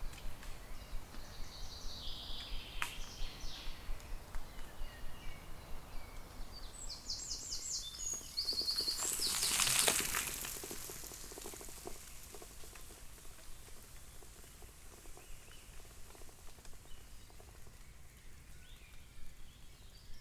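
Small birds singing in woodland, with short runs of repeated high notes, over a regular soft pulsing about two times a second. About halfway through, a brief swell of rushing noise rises and fades.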